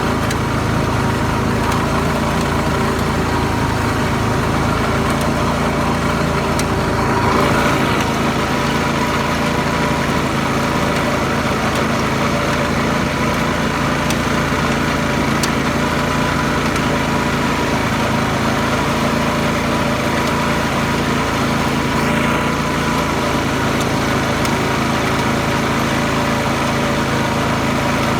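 Garden tractor engine running steadily, with one brief swell in level a few seconds in.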